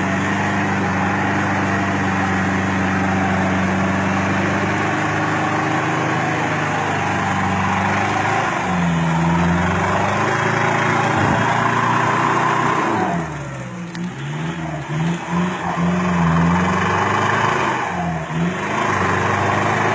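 A 4WD pickup truck engine running hard at a steady pitch, then revved up and down repeatedly over the last third, its pitch rising and falling several times.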